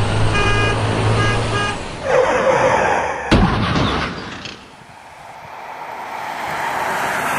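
A vehicle horn sounds in several short blasts over a low rumble. Then comes a rushing noise and a sharp bang a little over three seconds in, followed by a steady hiss that swells toward the end.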